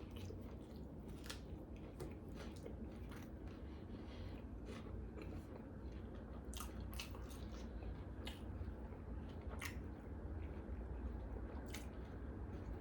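A person chewing crunchy food close to the microphone, with irregular sharp crunches and mouth clicks over a low steady hum.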